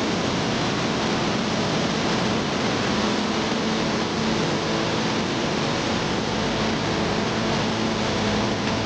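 Steady rushing of a swollen mountain river running in flood, an even roar of water with no breaks.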